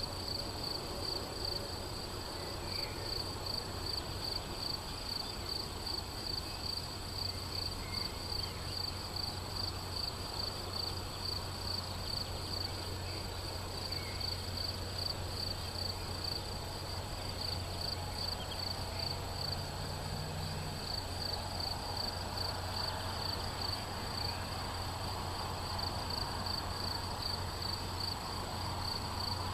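Crickets chirping in a fast, even, high-pitched pulse that never stops, over a low steady hum.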